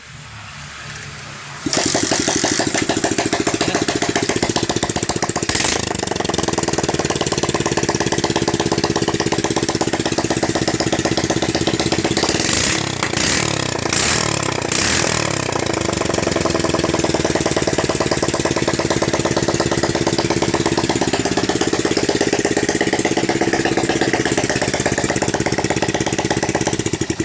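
Freshly overhauled Bajaj CT100 single-cylinder four-stroke engine catching about two seconds in. It runs loud and open with no exhaust pipe fitted, is revved up and down a few times around the middle, and settles back to a steady idle.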